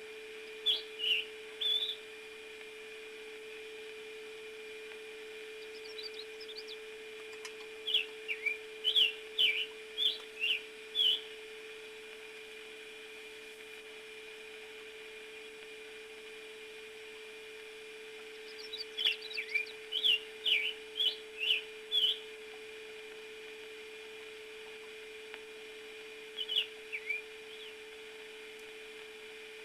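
Bird song: groups of short, quick chirps and whistles coming four times, about a second in, around 8 to 11 seconds, around 19 to 22 seconds and near the end, over a steady low hum.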